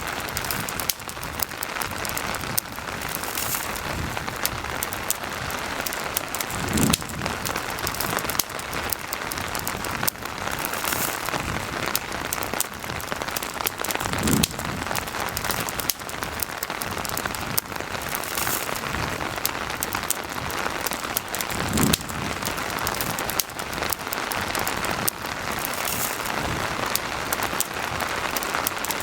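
Steady rain with a campfire crackling, sharp little pops scattered over the hiss of the rain. A soft low thud recurs about every seven to eight seconds.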